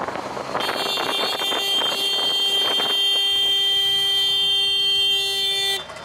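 A vehicle horn sounding one long, steady blast for about five seconds over road noise, cutting off abruptly near the end.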